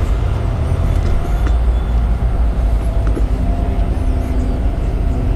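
Steady, loud low rumble of background noise, with faint steady tones above it.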